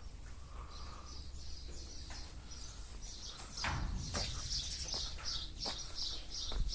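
A small bird chirping over and over, short high chirps about three a second, sparser at first and steady from about halfway in. A few sharp knocks come through along with a low rumble.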